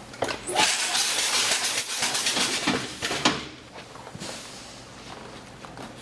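MPT-21 banding machine running a banding cycle: a hiss with clicks lasting about three seconds, ending in a sharp clack, then quieter steady running.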